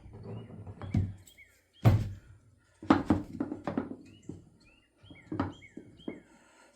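About half a dozen irregular knocks on wood as a small wooden birdhouse is assembled, with short falling bird chirps between them.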